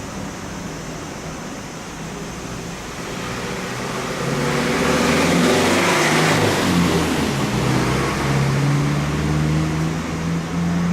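A motor vehicle's engine running close by, swelling in loudness about a third of the way in and holding there, its pitch drifting slowly.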